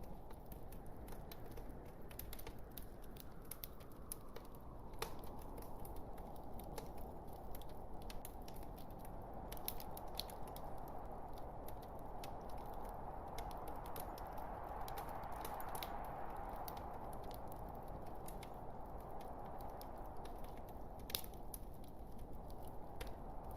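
Burning logs in a fireplace crackling: irregular sharp snaps and pops of the wood over a steady low rush of the flames, with one louder pop near the end.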